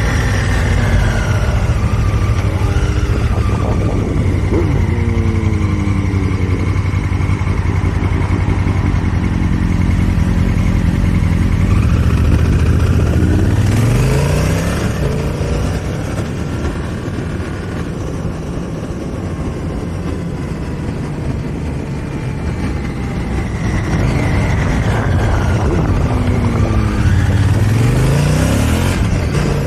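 2018 Honda Africa Twin Adventure Sport's parallel-twin engine running under way. The revs rise in pitch about halfway through and again near the end, with a quieter, lower-revving stretch in between.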